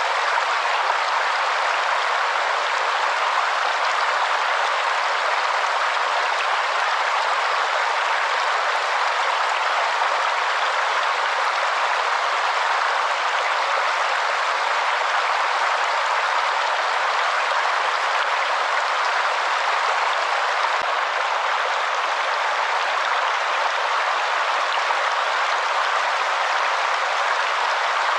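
Steady rushing of a waterfall, an even hiss of falling water with no breaks or changes.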